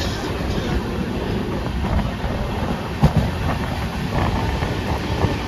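Moving Indian Railways express train heard from inside the coach: a steady rumble of wheels on the track, with a sharp knock about three seconds in.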